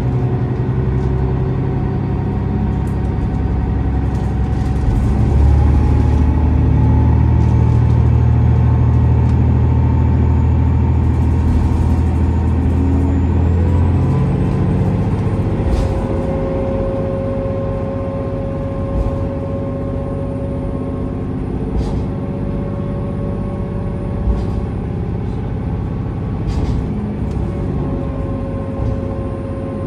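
KiHa 47 diesel railcar under way: the diesel engine drones under power while a whine rises slowly in pitch as the car picks up speed. About 14 seconds in the engine drone drops away as the power is shut off, and the car runs on with a steady whine and a few sharp clicks.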